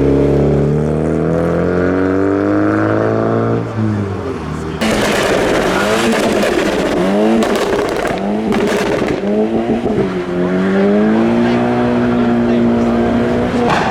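Car engine revving hard as a car pulls away. Its pitch climbs for about three and a half seconds, then after a short dip comes a louder, rougher stretch from about five seconds in, with the revs rising and falling several times before one more steady climb near the end.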